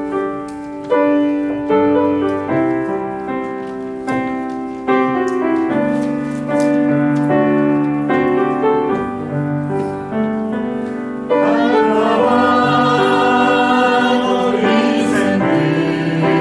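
Piano or keyboard playing a slow worship song, with singers coming in about eleven seconds in and the music growing louder.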